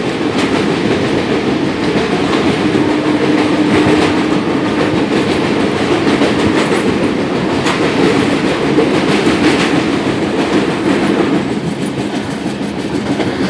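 Train running over a steel railway bridge, heard from inside the moving coach: a loud, steady rumble and rattle of wheels on rails, with clickety-clack from the rail joints. It eases slightly near the end as the train comes off the bridge onto the bank.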